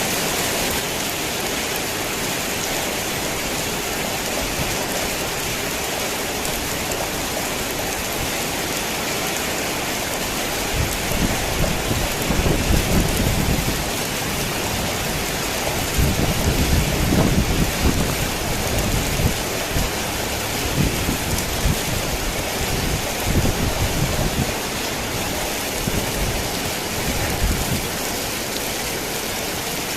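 Heavy rain drumming steadily on a tin roof, with low rolls of thunder rumbling through it: one starts about a third of the way in, a stronger one comes just past the middle, and smaller rumbles follow.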